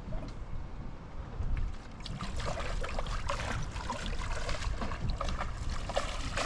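Heavy rain pattering on the boat and the water, thickening into a dense spatter about two seconds in, over a low rumble of wind on the microphone.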